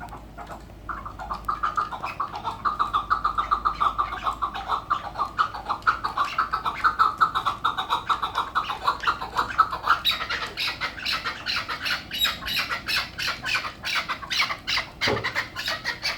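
Chukar partridge calling a long run of rapid repeated clucking notes; about ten seconds in, the notes turn higher and louder.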